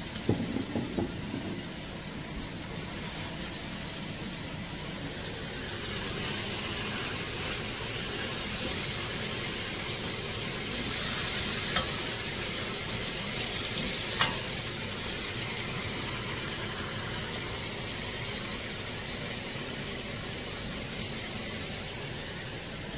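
Sliced mushrooms sizzling in a steel wok over a gas burner as they are stir-fried with a metal wok ladle. There are a few clinks of the ladle just after the start and two sharp taps against the wok about midway, and the sizzle grows stronger through the middle.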